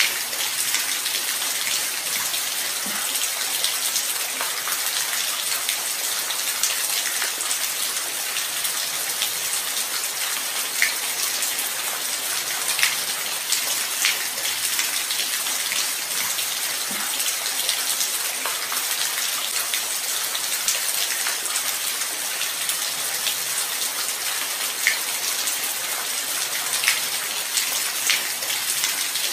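Steady light rain: an even hiss of falling rain with scattered close drops ticking on a surface.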